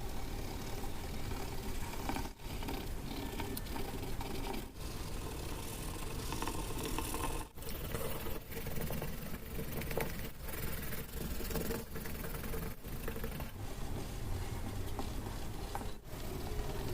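Close-up paper handling: paper rubbing and scraping continuously, cut by several brief breaks.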